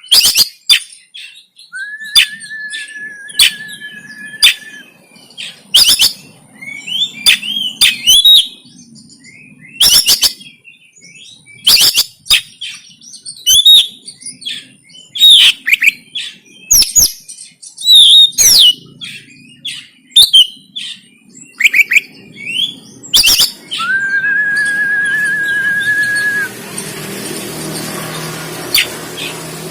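Oriental magpie-robin (kacer) singing hard in fighting mode: loud sharp chips and quick whistled phrases, with two long even whistles, each held for two to three seconds, one near the start and one near the end. A steady rushing noise comes in during the last few seconds.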